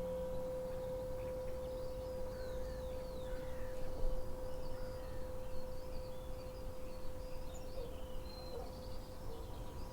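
A struck tuning fork ringing one steady, pure tone. Birds chirp faintly in the background.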